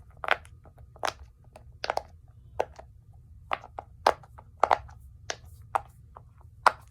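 Heart-shaped silicone pop-it fidget toy being pressed bubble by bubble: about a dozen sharp separate pops at an uneven pace, roughly two a second.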